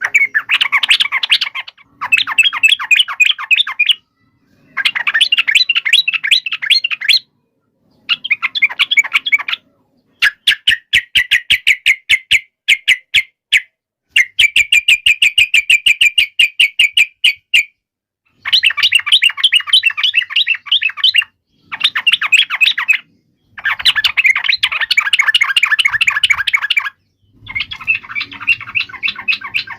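Yellow-vented bulbul (trucuk) giving rapid, harsh chattering calls: agitated 'fighting' chatter. The calls come in bursts of a few seconds, each cut off abruptly by a short silence.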